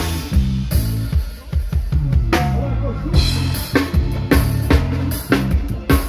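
Live band playing an instrumental passage at a sound check: a drum kit with kick and snare strikes over a steady bass line, with a melodic instrument higher up.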